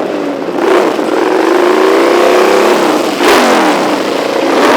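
Car engine revving hard as a car accelerates past, its pitch climbing for about three seconds, then a sharp crack and the pitch dropping away.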